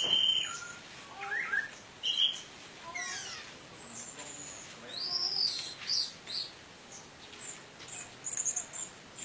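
Orange-headed thrush (anis merah) singing a varied song of separate whistled phrases: rising and falling glides, an arching note about five seconds in, and a quick stuttering run of high repeated notes near the end.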